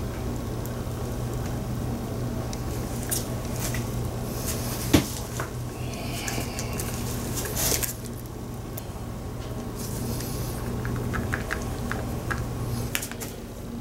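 Epoxy resin and hardener being pumped from pump-top jugs into a plastic mixing cup: plunger clicks and squishes, with one sharp click about five seconds in. A steady machine hum runs underneath and stops near the end.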